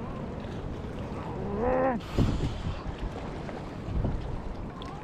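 Wind buffeting the microphone and water noise around a kayak at sea, a steady rough rumble. Just before two seconds in there is a brief wordless voice sound, followed by a short hiss like spray or a splash.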